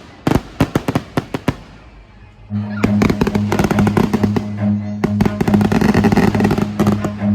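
Rapid sharp crackling of fireworks, then music with a steady bass comes in about two and a half seconds in and plays loudly under more dense crackling.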